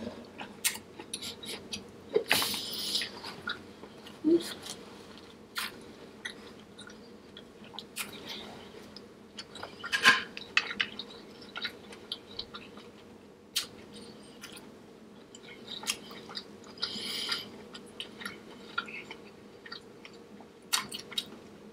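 A person chewing and smacking on sauce-coated seafood close to the microphone, with many small wet clicks and a few louder, hissier mouth sounds spread through.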